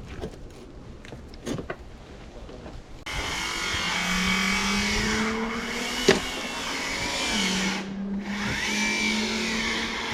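Scattered light knocks and handling noise, then a motor starts running steadily, its hum slowly rising in pitch, dropping and rising again, with one sharp knock about six seconds in.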